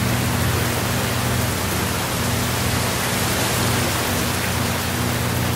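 Steady rain, an even hiss of many falling drops with no distinct strikes, over a low steady hum.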